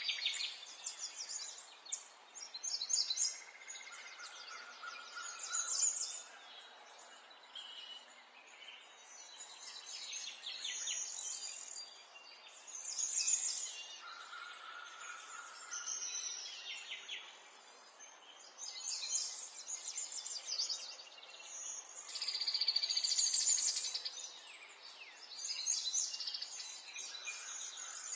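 Mixed birdsong: several birds singing and chirping in short, overlapping high phrases, with a lower steady whistled note twice and a dense buzzy trill near the end.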